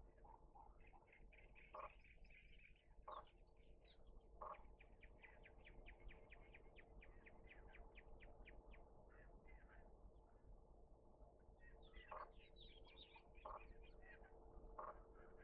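Faint birdsong: a quick run of evenly repeated chirps, about four or five a second through the middle, with a few stronger single notes about a second and a half apart near the start and near the end.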